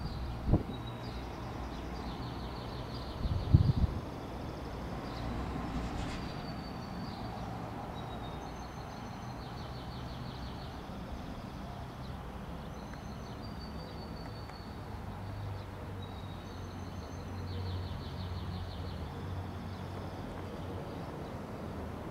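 Outdoor ambience: a steady low rumble, with a small bird repeating a short song phrase, a high chirp followed by a fast trill, every few seconds. Two brief knocks sound in the first four seconds.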